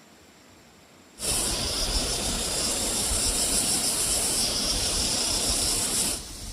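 Loud steady hiss that starts suddenly about a second in and cuts off abruptly about five seconds later.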